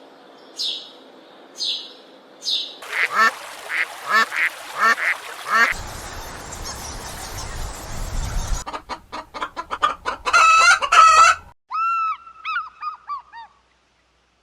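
Waterfowl calling: a run of honking calls in several short series, with a stretch of low rumbling noise near the middle.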